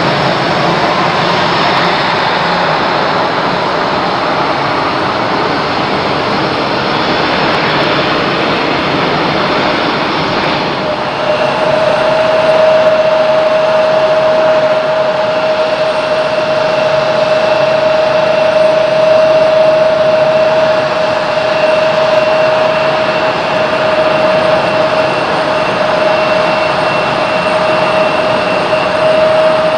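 Jet airliner engines running, a steady loud rushing noise. About a third of the way in the sound changes abruptly and a steady high whine joins the rush, the fan and compressor whine of the jet engines.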